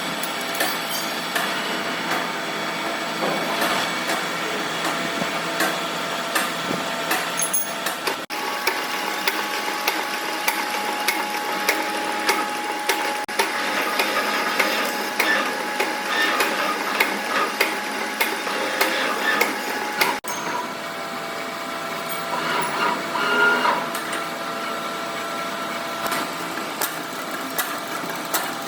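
Metalworking shop machinery running, with steady whining tones and frequent sharp metallic clicks and knocks. The sound breaks off abruptly about eight and twenty seconds in.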